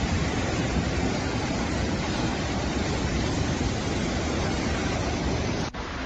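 Floodwater rushing in a steady, dense noise. About five and a half seconds in, a sudden cut leads to a slightly quieter stretch of the same kind of rushing.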